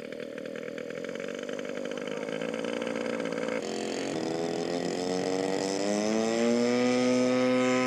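Radio-controlled scale model airplane engine running. About halfway through its pitch climbs smoothly for a couple of seconds, then holds steady higher and louder as it is throttled up.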